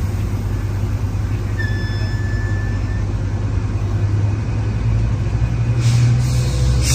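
Metrolink commuter train standing at a station platform, its diesel locomotive running with a steady low rumble that grows louder about six seconds in. A brief high beep sounds about two seconds in, and short hisses come near the end.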